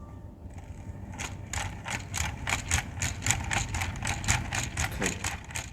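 A low rumble with a fast, even run of sharp mechanical clicks, about four a second, starting about a second in.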